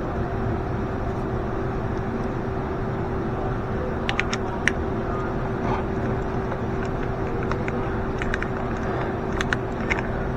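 A steady mechanical hum with one constant tone, and a few light clicks and clinks from work on the fuel-line fittings, bunched about four seconds in and again near the end.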